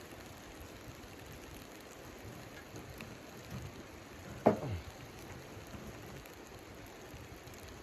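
Steady pattering noise, like precipitation on a shelter, with one short, sharp knock about four and a half seconds in.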